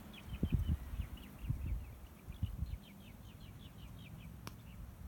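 A small bird singing a long, rapid run of short, high, down-slurred chirps, several a second. Low rumbling bumps on the microphone fill the first three seconds, and a single sharp click comes near the end.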